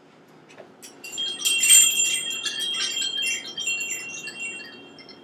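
Tinkling chimes: a flurry of high ringing strikes starting about a second in, with a few tones ringing on as it fades out.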